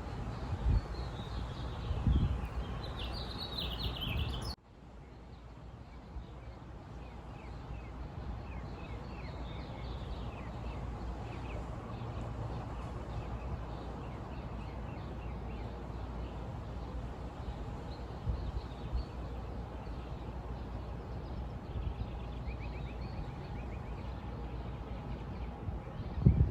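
Small birds chirping over a low outdoor background rumble. About four and a half seconds in the sound cuts abruptly to a quieter stretch where the chirps are fainter and more scattered.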